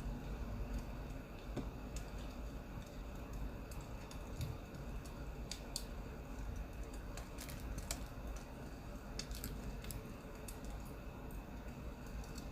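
Recorded wood fire crackling: irregular sharp pops and snaps over a low steady rumble.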